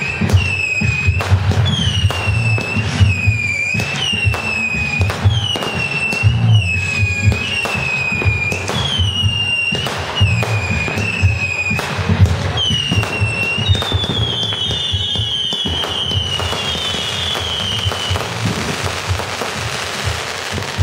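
Fireworks firing in steady succession, a sharp pop about once a second, each followed by a short falling whistle. Past the middle several whistles overlap, and near the end they give way to the crackling hiss of crackle stars.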